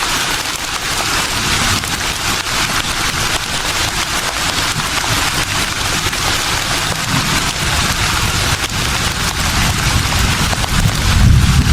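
Breeze blowing through leaves: a steady rustling hiss, with a low rumble of a stronger gust near the end.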